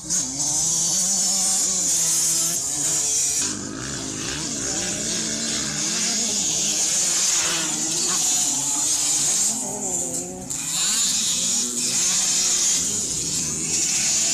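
Several small two-stroke motocross bikes racing, engines revving up and down with wavering, overlapping pitches; the sound drops briefly about three and a half seconds in and again around ten seconds.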